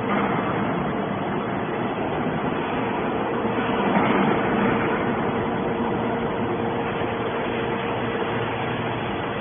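Hydraulic scrap metal baler running: a steady mechanical noise with a constant hum, growing louder for a moment about four seconds in.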